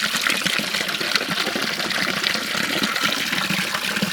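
Spring water gushing steadily out of the rock in a continuous splashing stream.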